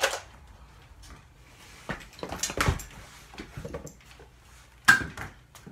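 Scattered sharp clacks and thuds of an indoor Nerf battle: a knock at the start, a cluster with one heavy thud near the middle, and two more sharp clacks near the end.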